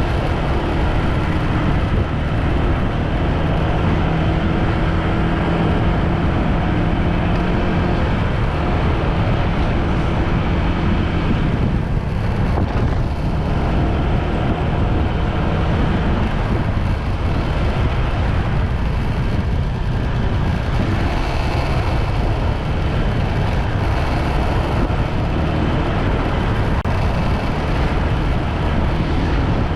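Motorbike on the move: steady, loud engine and road noise, with a faint steady engine tone that fades about ten seconds in.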